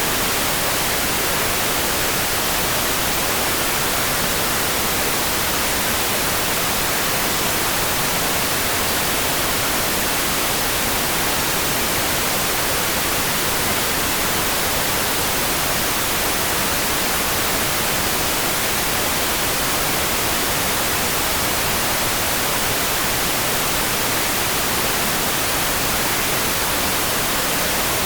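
Steady rain, an even, unbroken hiss with no separate drops standing out and no thunder.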